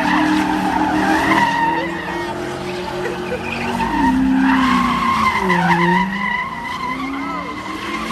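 Car engine held at high revs, its pitch wavering up and down, with tires squealing as the car spins its wheels in a burnout.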